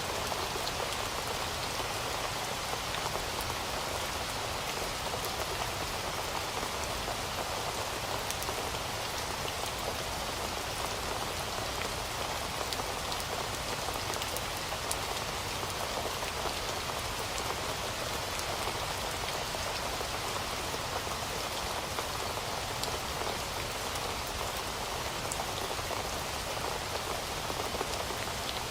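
Heavy rain falling steadily, a dense even hiss of drops with fine individual patters, no change in strength.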